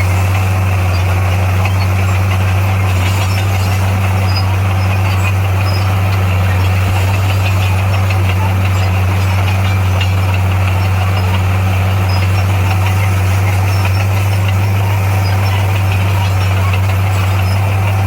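Heavy diesel engine of earthmoving machinery running at a steady, unchanging speed with a deep, constant hum.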